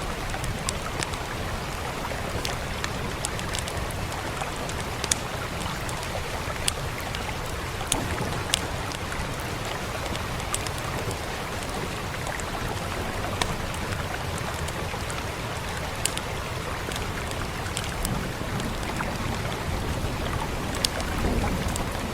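Steady rain hiss with scattered, irregular sharp pops and crackles of a wood fire, over a low steady rumble.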